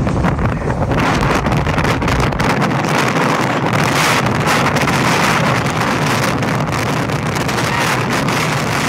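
Storm-force wind blasting across the microphone: loud, continuous wind noise, its deepest rumble easing about two and a half seconds in.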